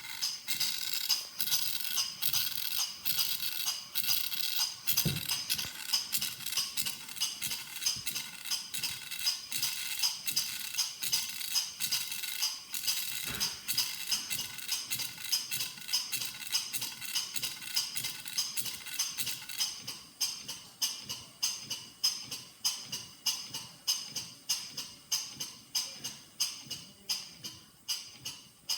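Stuart Major model beam engine running steadily, with a rhythmic metallic ticking and light hiss on each stroke at a little over two beats a second. It grows quieter about two-thirds of the way through.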